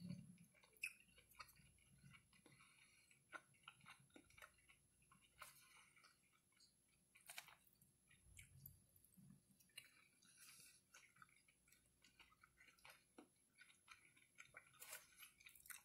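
Faint, scattered wet clicks and smacks of someone chewing a mouthful of chicken, over near silence.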